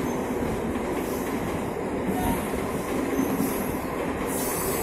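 MEMU electric multiple unit train rolling slowly into the station, a steady rumble of wheels on track with brief high-pitched bursts from the running gear about once a second.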